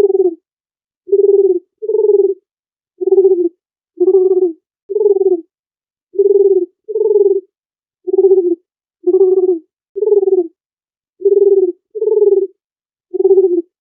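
Dove cooing over and over: short, low, hooting coos of about half a second each, roughly one a second, often in close pairs, with complete silence between them.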